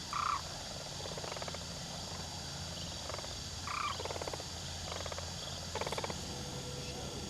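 Sandhill cranes calling: five or six short, rolling, rattling calls spaced across a few seconds, a couple of them with a brief clear-toned note, over a steady low hum.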